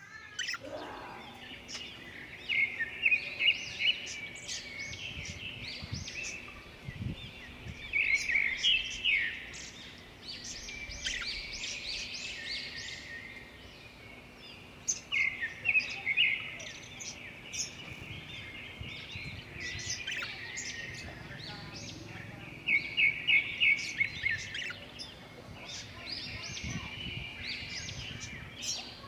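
Lutino budgerigar chattering in a run of bursts of quick chirps and warbles, with louder rapid chirp sequences every several seconds, over a faint steady hum.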